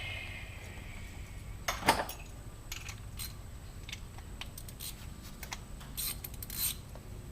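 Metal hand tools clinking and clicking against each other while working exhaust springs with pliers: one loud clank about two seconds in, then lighter scattered clicks.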